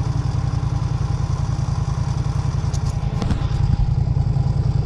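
Off-road vehicle engine idling steadily with an even low throb, and a few light clicks about three seconds in.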